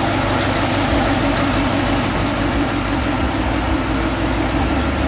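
Chevrolet Monte Carlo's engine idling steadily.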